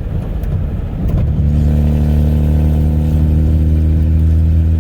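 A 1995 Ford F-150's 4.9-litre straight-six running through a straight-piped 2.5-inch exhaust with no muffler, heard from inside the cab while driving. About a second in, the exhaust gets louder and settles into a steady, deep note at constant engine speed.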